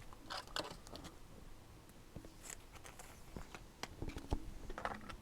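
Faint clicks and light rustles of trading cards being handled and slid against each other.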